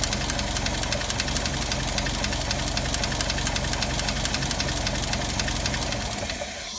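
1931 Pontiac flathead straight-six idling with a rapid, even ticking from its valve lifters, the valve noise that is being tracked down. The sound fades out near the end.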